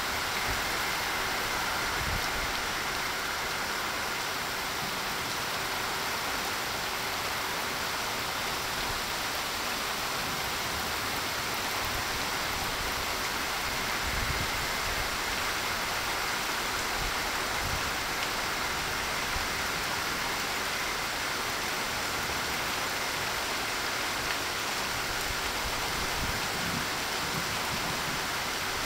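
Very heavy rain pouring down in a sudden summer thunderstorm cloudburst, a dense steady hiss with no letup.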